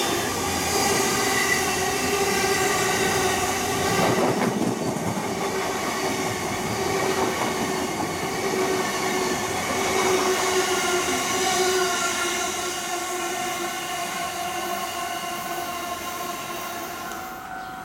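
E259 series Narita Express electric train running past at close range: wheels on the rails with several steady high tones over the running noise. The sound eases off over the last few seconds.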